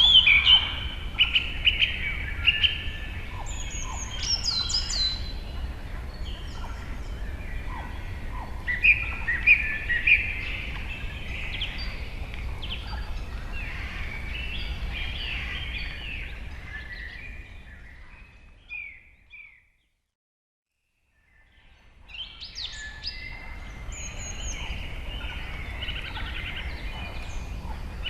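A chorus of birds chirping and calling in many quick, overlapping short notes over a steady low background noise. Several louder calls stand out near the start and about a third of the way in. About two-thirds through, everything fades to a brief silence and then fades back in.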